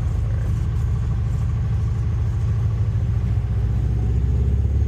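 Cessna 172RG's four-cylinder Lycoming engine and propeller running steadily at low power, a deep pulsing drone, just before takeoff power is applied.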